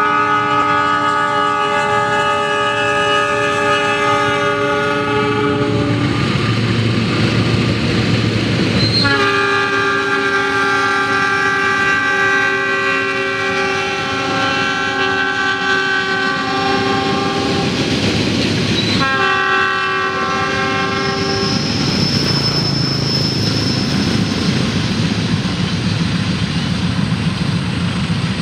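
GE CC 206 (CM20EMP) diesel locomotive's multi-note horn sounding long, steady blasts: one held for the first six seconds, a long one from about nine seconds to nineteen, and a short one straight after, with engine rumble in the gaps. Then the train passes with loud wheel clatter on the rails.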